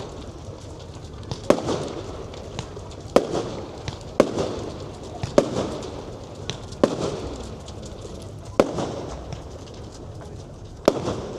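Aerial fireworks exploding in a display: about seven sharp bangs one to two seconds apart, each trailing off over a second or so.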